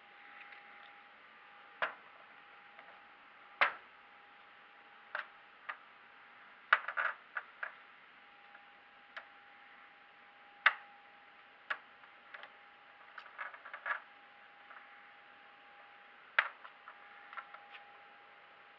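Scattered sharp clicks and taps at uneven intervals, some single and some in quick clusters, over a faint steady whine.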